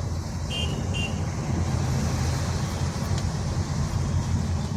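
Cabin noise of a Honda Elevate SUV driving in heavy rain: a steady low road and engine rumble under a hiss of rain and wet tyres. Two short horn toots sound about half a second and a second in.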